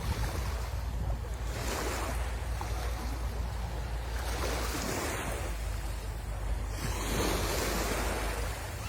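Sea waves washing onto the shore, swelling and falling about every two and a half seconds, over a steady low rumble of wind on the microphone.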